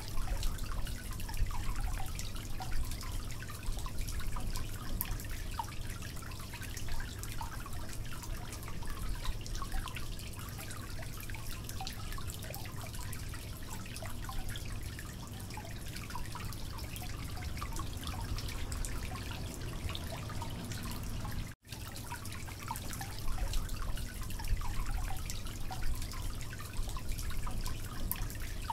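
Mutton and masala sizzling and crackling in oil in a pot while being stirred with a wooden spatula, the frying (bhuna) stage before water goes in. Lots of small, irregular crackles over a steady low hum.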